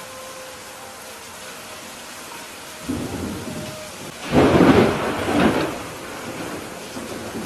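Steady rain falling with a thunderclap: a first rumble about three seconds in, then a louder crack and roll of thunder just after, dying away a second or so later.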